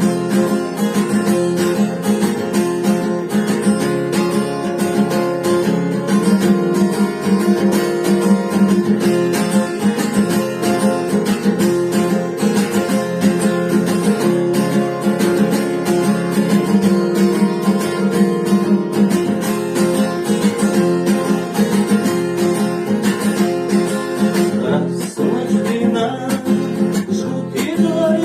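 Acoustic guitar strummed in a steady rhythm, playing the instrumental passage between the sung verses of a song.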